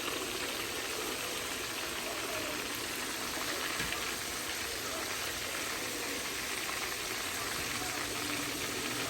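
Chicken wings deep-frying in hot oil: a steady, even sizzle.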